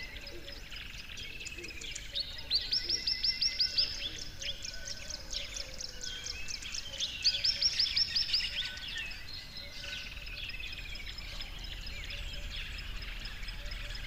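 Songbirds singing and chirping, with two loud trills of rapid repeated notes, one about two and a half seconds in and another about seven seconds in.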